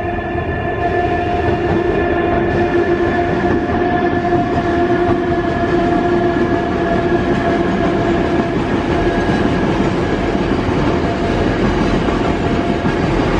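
Freight train on an Indian dedicated freight corridor running past at close range: a loud, steady rumble of wheels on the rails with several steady whining tones, which fade out near the end.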